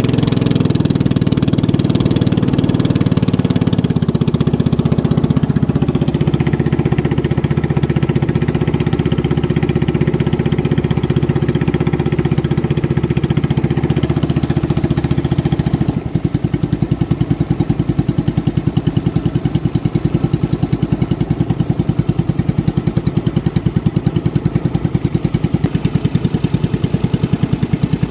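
Racing boat's engine running hard, a loud steady drone. About halfway through the sound changes to a rapid, even pulsing beat.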